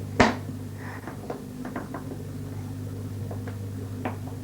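A sharp knock just after the start, then a few lighter taps and clicks near the middle and end: jigsaw puzzle pieces being handled and set into the puzzle board. A steady low hum runs underneath.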